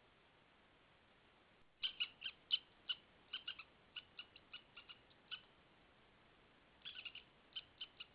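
A bird calling in two runs of short, sharp notes, about three or four a second, with a pause of about a second and a half between the runs; a faint steady hiss lies under it and is all that is heard before the calls begin.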